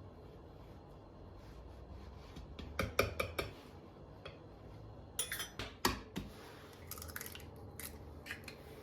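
Kitchen utensils and dishes clinking and knocking during baking: a cluster of sharp clicks about three seconds in, a louder cluster around five to six seconds in, then lighter taps.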